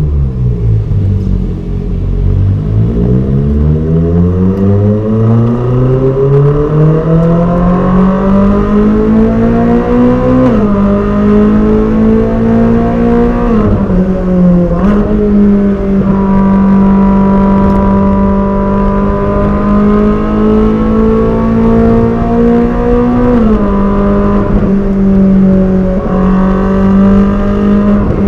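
Ferrari 458 Speciale's naturally aspirated flat-plane-crank V8 heard on the move: the engine note falls briefly, then climbs steadily through the revs for about eight seconds. Short dips in pitch mark gear changes, with long stretches of steady engine speed between them and another change near the end.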